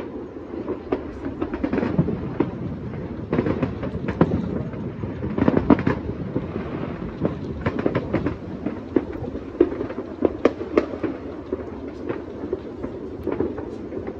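Many distant fireworks and firecrackers going off at once: a continuous low rumble of overlapping bangs, with frequent sharp pops at irregular moments standing out above it.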